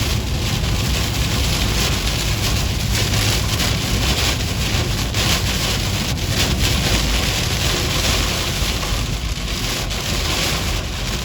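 Heavy wind-driven rain and gusting wind on a moving car, heard from inside the cabin: a steady loud hiss over a low rumble of road and wind noise.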